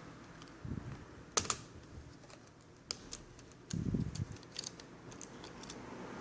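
Hands handling and working on a Toshiba NB550D netbook's plastic parts: scattered sharp plastic clicks and taps, with two soft thumps about a second in and about four seconds in.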